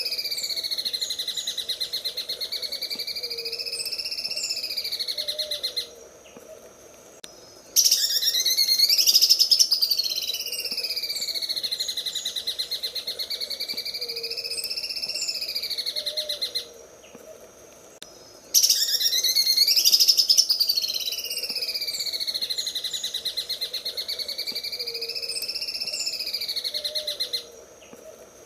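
Green leafbird (cucak ijo) singing its "sewing machine" song: a fast, buzzing, rattling trill whose pitch slowly rises and falls. It comes in long phrases of about eight seconds, three times in nearly identical form, each followed by a pause of about two seconds.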